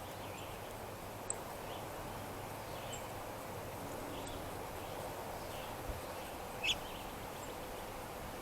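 Outdoor ambience at a backyard feeder: a steady hiss of background noise with faint, scattered short bird chirps. There is a sharp click about a second in and one louder, sharper chirp near the end.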